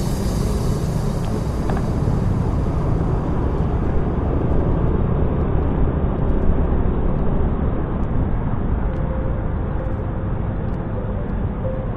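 Motorcycle riding noise picked up by an action camera: a steady rush of wind and road noise, heaviest in the low end, with a faint steady engine tone in the second half.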